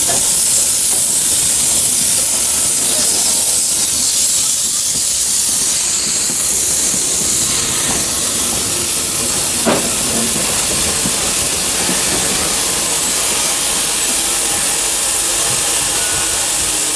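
Narrow-gauge steam locomotive letting off steam: a loud, steady hiss, with a single short knock about ten seconds in.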